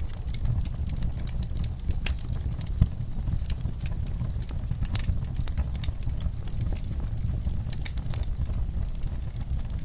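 Wood fire burning in a fireplace: a steady low rumble of flames with irregular crackles and pops, several a second.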